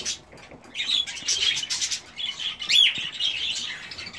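A mixed aviary flock of budgerigars and cockatiels chattering and chirping together, with one louder rising call about three seconds in.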